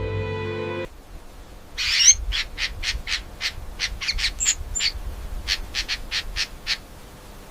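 A small bird chirping in a quick run of short, sharp chirps, about three or four a second, the loudest about two seconds in, stopping near the end.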